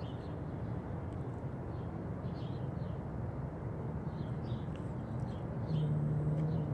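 Steady low drone of an idling vehicle engine, with scattered short bird chirps over it; the drone steadies and grows a little louder near the end.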